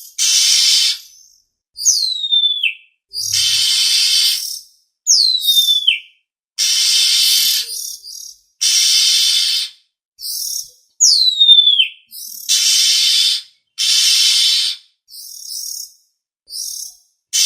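Oriental magpie-robin (kacer) calls: a run of harsh, rasping calls about a second long each, with three clear whistles that slide down in pitch between them.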